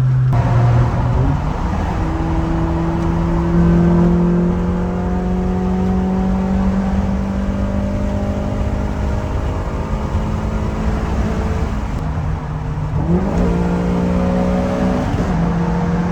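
Honda Prelude's four-cylinder engine pulling under load, its revs climbing slowly and steadily for most of the time, then dropping and climbing back quickly twice near the end as the throttle is eased and reapplied.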